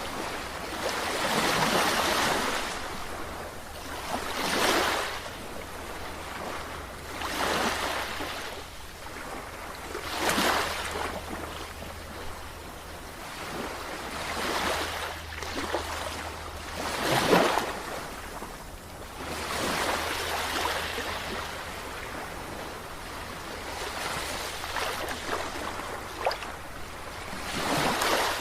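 Sea waves breaking and washing in, one surge every two to four seconds, each swelling up and then fading away, the loudest about two-thirds of the way through, over a steady low rumble.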